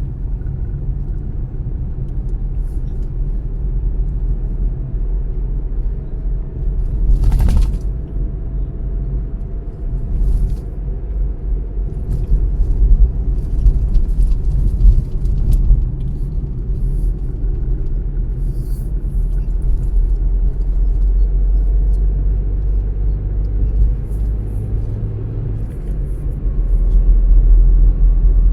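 A car driving on the road: a steady low rumble of road and engine noise. A short rush of noise stands out about seven and a half seconds in, and the rumble grows a little louder near the end.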